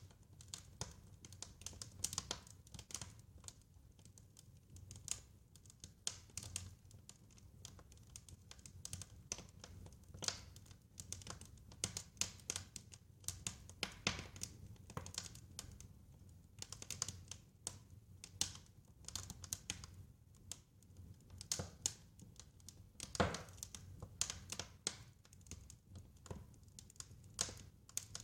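Wood fire crackling, with irregular sharp pops and snaps over a low steady rumble; one louder pop comes near the end.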